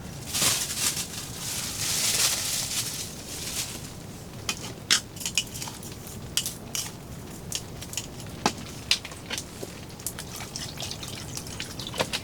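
Rain: a steady hiss with many separate sharp drips landing close by, and a louder rush in the first few seconds.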